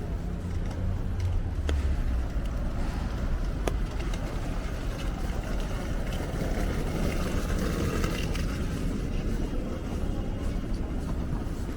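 Steady city street noise with traffic, a low rumble throughout and a few light clicks.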